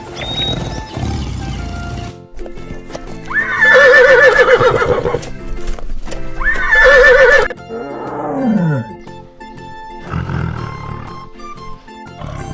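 Horse whinnying twice, each a loud, shrill call with a quavering pitch, about three seconds in and again about six seconds in, with a lower falling sound after the second. Background music plays throughout.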